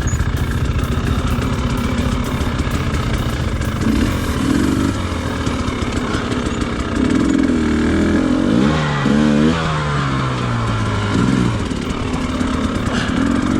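Dirt bike engine running at low revs, blipped up and down as the bike picks its way down a steep rocky descent. The revs rise and fall most clearly from about seven to eleven seconds in.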